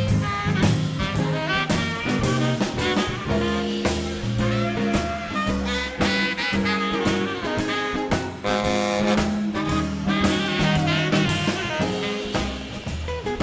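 Live swing band playing an instrumental passage of an up-tempo R&B number: saxophones, trumpet and trombone over upright bass and a drum kit.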